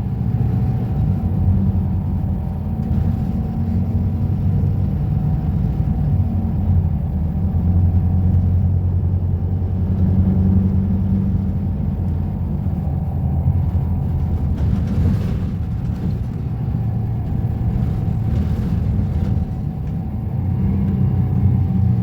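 Volvo B250RLE bus engine running with a steady low rumble, its pitch wavering slightly. A short rush of noise comes in about 15 seconds in and a fainter one a few seconds later.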